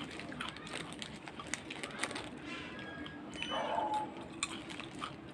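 Scattered light crackles and clicks from crisp ampalaya (bitter gourd) vegetable chips being handled and eaten.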